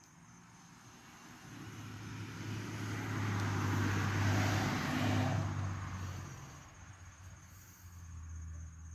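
A motor vehicle passes by, its engine and road noise getting louder to a peak about four to five seconds in, then fading away.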